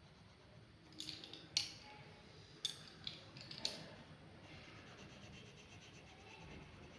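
A drawing tool scratching and tapping on paper: a handful of short, sharp scrapes in the first half, then faint, even strokes on the paper.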